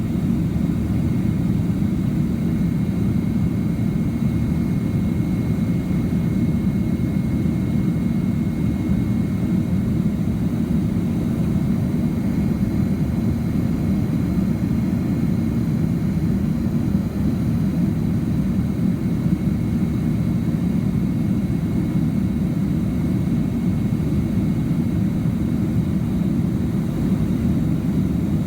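Steady cabin roar of a Boeing 767-300ER in flight just after takeoff: jet engine and airflow noise, a deep even rumble with a faint high whine above it.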